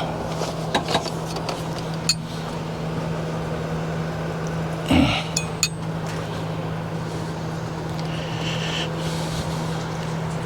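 A few light metallic clicks and clinks from handling awning hardware, over a steady low hum.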